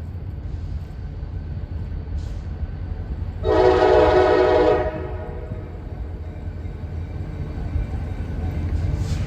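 Diesel freight locomotive approaching with a low rumble that grows louder. About three and a half seconds in, it sounds one blast of its air horn, a chord of several tones lasting just over a second.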